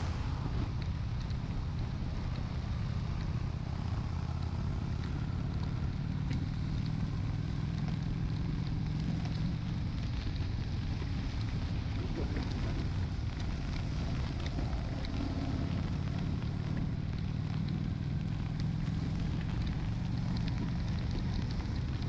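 Honda Shadow 750's V-twin engine running at a steady cruise, a constant low rumble mixed with wind noise on the microphone. Scattered raindrop ticks hit the microphone.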